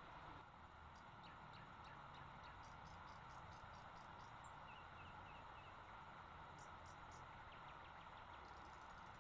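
Near silence: a faint steady hiss of outdoor ambience with scattered faint ticks and a short run of small chirps about halfway through.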